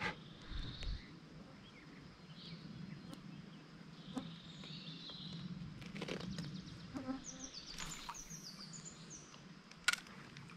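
Small songbirds singing in short chirping phrases, with a quick falling run of notes a little after halfway. A few sharp clicks, the strongest near the end, over a low steady hum.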